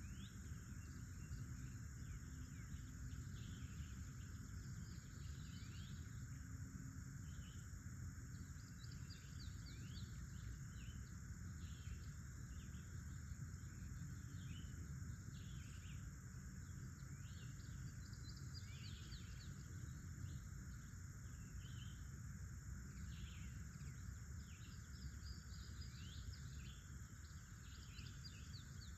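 Outdoor nature ambience: many birds give short, quick chirps in a steady scatter over a continuous high insect drone, with a steady low rumble underneath.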